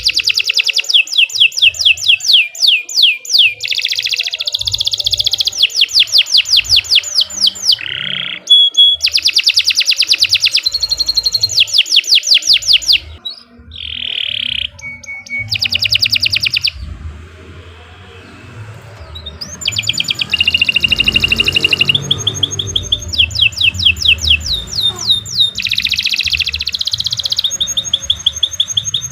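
Domestic canary singing a long, continuous song of fast trills and rolling repeated notes, high-pitched. It eases into a quieter lull about halfway through, then resumes in full.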